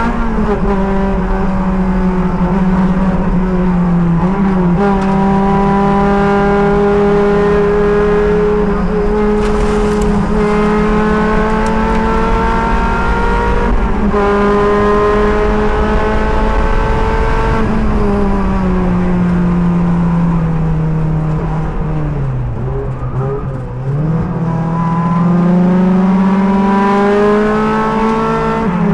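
Sports car engine under hard acceleration, heard from the driver's helmet camera. Its pitch climbs slowly and drops back with an upshift about every four to five seconds. Past the middle it falls away for several seconds under braking and downshifts, then climbs again as the car accelerates, with another shift near the end.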